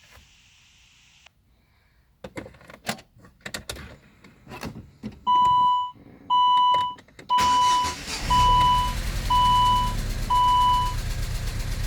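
Car's warning chime beeping six times, about once a second, while the engine is started about seven seconds in and settles into running. A handful of clicks and knocks come before the chimes.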